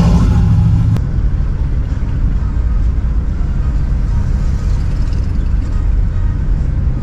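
Car engine running with a strong low rumble that cuts off abruptly about a second in, followed by a quieter, steady low engine rumble.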